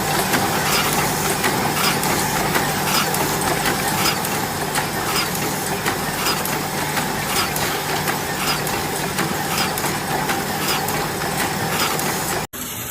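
A machine running steadily, with a low hum and a regular clatter about twice a second.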